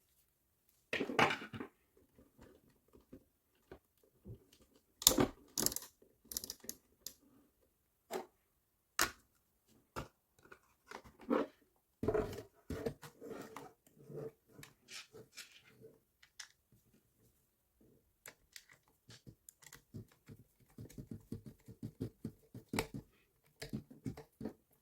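Irregular clicks, taps and rustles of hands handling small plastic parts of an electric fan, with a quick run of small ticks near the end.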